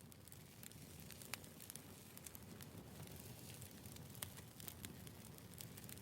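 Firewood burning with faint, irregular crackles and pops over a soft low rumble.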